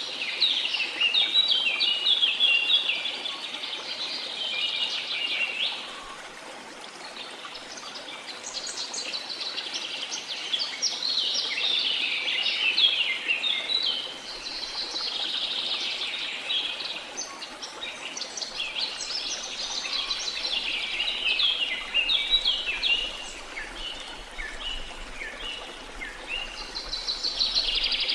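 Many birds chirping and singing at once, a dense chorus of quick, overlapping calls that thins briefly about six seconds in, over a faint steady hiss of falling water.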